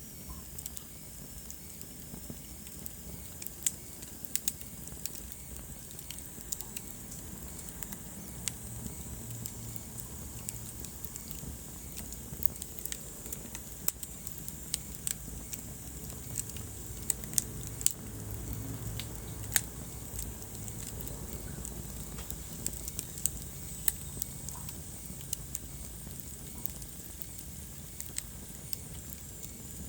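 Wood fire burning in a fireplace: sharp, irregular crackles and pops over a low, steady rumble of the flames.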